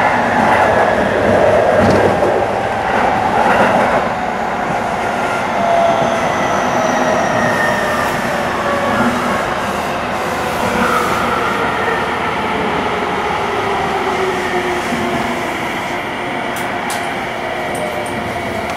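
Tsukuba Express electric commuter train heard from inside the car as it slows for a station stop: a steady rolling rumble with several whining motor tones that slowly fall in pitch. A few faint clicks come near the end.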